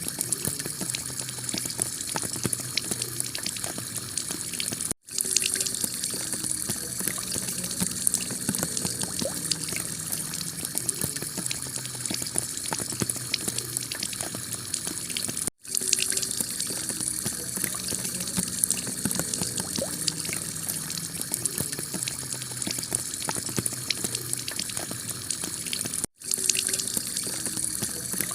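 Heavy rain pouring onto a clay tile roof: a steady, dense patter and hiss. The sound drops out for a split second three times, about ten seconds apart.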